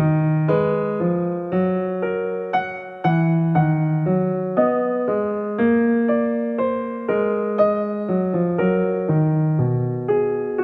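Background piano music: a slow melody of single sustained notes with chords, struck about twice a second.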